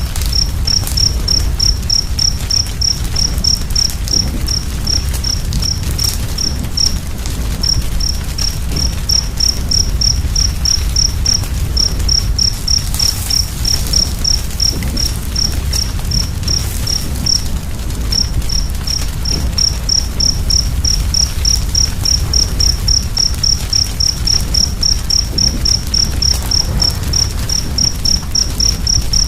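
A cricket chirping in a steady run of short high pips, about three a second, breaking off briefly twice. Beneath it runs the low, steady rumble of a fire with a few faint crackles.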